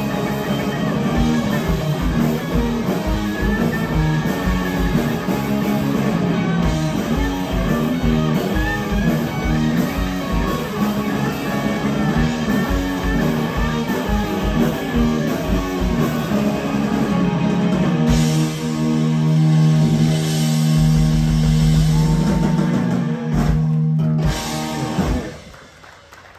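Live rock band, electric guitars, bass and drum kit, playing a loud instrumental passage without vocals. About two thirds of the way in they land on a long held final chord with crashing cymbals, which is cut off near the end as the song finishes.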